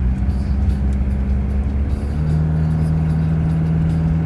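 Car engine and road noise heard from inside a moving car's cabin, a steady low drone whose engine note steps slightly lower about two seconds in.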